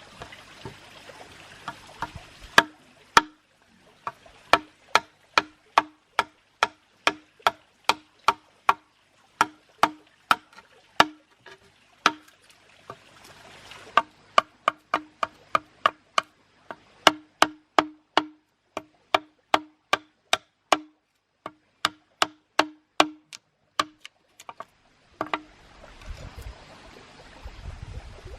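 A long run of sharp knocks on wood, about two to three a second, each with a short hollow ring, like steady chopping on a wooden board. It pauses twice and stops a few seconds before the end, and a steady hiss fills the gaps.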